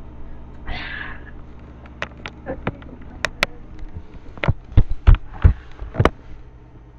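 A short breathy hiss, then a run of sharp clicks and knocks with several louder thumps about two-thirds of the way through, over a faint steady hum.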